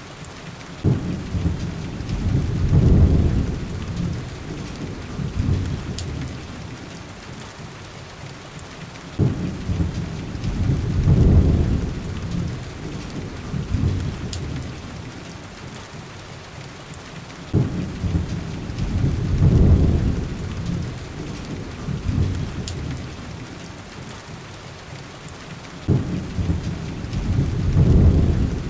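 Heavy rain hissing steadily, with rolls of thunder coming about every eight seconds, four in all. Each roll starts suddenly, swells for a couple of seconds and dies away.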